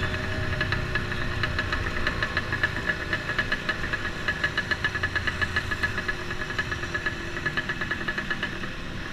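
Kawasaki HDX motorcycle's small single-cylinder engine running steadily, with a fast, even ticking.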